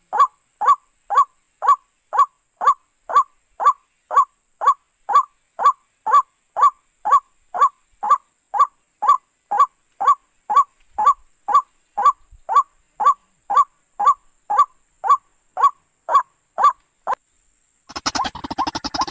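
White-breasted waterhen (ruak-ruak) call, a short honking note repeated evenly about twice a second, as a lure recording for bird trapping. The calls stop about 17 s in, and a different, denser sound starts just before the end.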